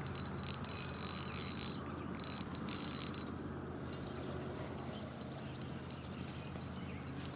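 Fishing reel being cranked while reeling in a hooked crappie: a rapid mechanical clicking and whirring for about the first three seconds, then fading to faint background.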